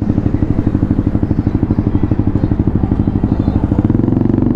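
Motorcycle engine running with a fast, even train of exhaust pulses, the pitch rising slightly near the end.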